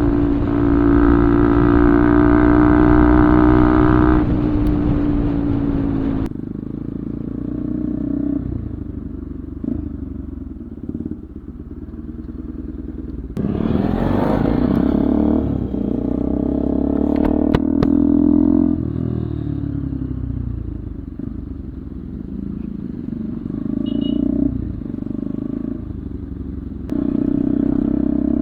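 Bajaj Pulsar 200's single-cylinder engine through an Akrapovič full-system aftermarket exhaust, running and being revved. The exhaust note is loud at first and eases off about six seconds in. It swells again about halfway through, then drops to a lower note and picks up once more near the end.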